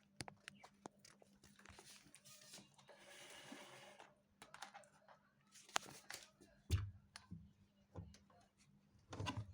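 Faint handling noises: scattered clicks and light rustling, with a brief rustle about three seconds in and a few dull thumps later on.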